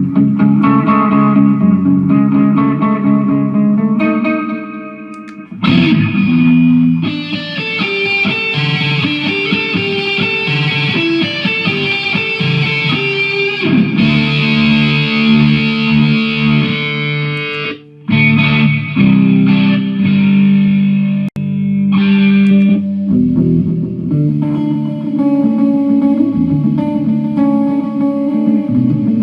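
Jackson electric guitar played through a Mooer GE150 multi-effects unit, sustained notes and chords with effects on. The sound breaks off briefly a few times, about five seconds in and twice more late in the stretch.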